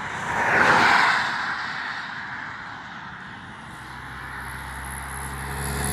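A vehicle passing close on the road, its noise swelling about a second in and fading away, then another vehicle's engine hum growing steadily louder near the end as it approaches.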